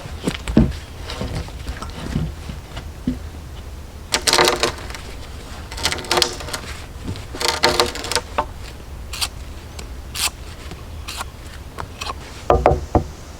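Wood and tools being handled during building work: scattered knocks and clacks, with three short harsh rasping sounds about four, six and seven and a half seconds in.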